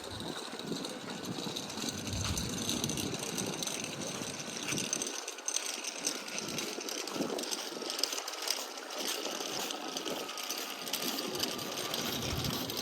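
Steady outdoor background noise of a busy walkway, with a continuous whirring mechanical rattle.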